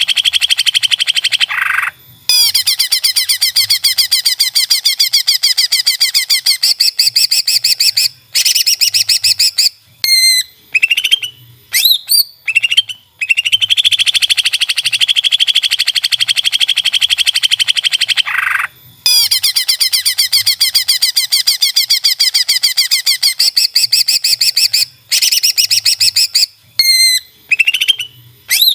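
Greater green leafbird (cucak ijo) singing: three long, very fast trills of several seconds each, broken by short upswept whistles.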